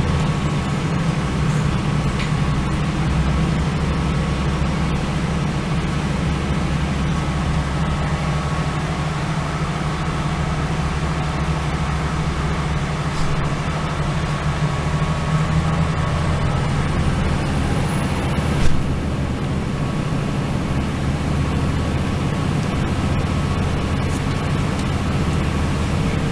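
Steady low rumble of a Northern Ireland Railways diesel multiple unit running along the line, heard from inside the carriage, with a single knock about two-thirds of the way through.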